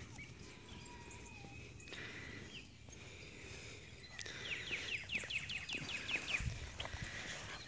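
Outdoor ambience with a songbird singing a quick run of short, down-slurred chirps, about five a second, starting a little past halfway, after a faint drawn-out whistle in the first couple of seconds. A few low thumps come near the end.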